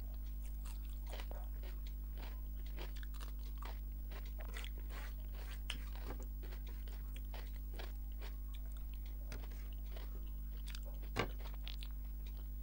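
Close-miked eating by hand: chewing and mouth clicks of rice and fish curry, with fingers gathering rice on a plate, over a steady low hum. A sharper click stands out about 11 seconds in.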